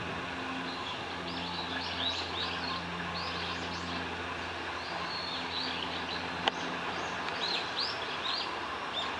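Bird calls: many short, high chirps in quick clusters, over a steady low hum. A single sharp click past the middle.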